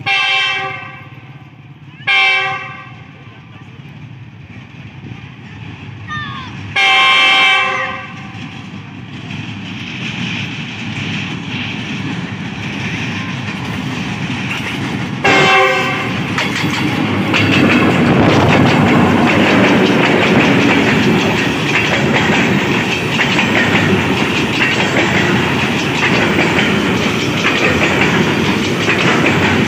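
GEU-40 diesel locomotive sounding its horn four times as it approaches: two short blasts, a longer one about seven seconds in, and a short one about fifteen seconds in. Then the locomotive passes and a long train of fully loaded coal hopper wagons rolls by with a loud, steady clickety-clack of wheels over rail joints.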